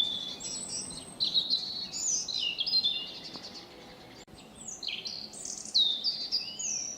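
A songbird singing: quick runs of clear whistled notes that jump and slide in pitch, in two bouts with a short gap about halfway.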